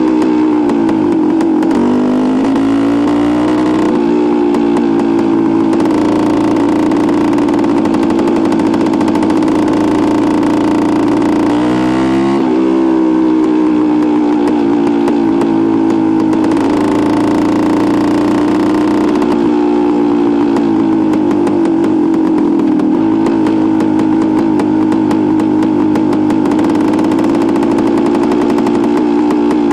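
1973 Suzuki TS250's single-cylinder two-stroke engine running while being ridden, its revs dropping and climbing again three times: about a second in, near the middle, and about two-thirds of the way through.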